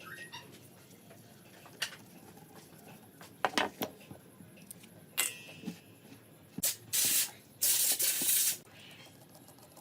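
Two bursts of spray hissing, a short one about seven seconds in, then one lasting about a second, from spray being applied to carburetor parts. A few clicks and taps of parts being handled come before them.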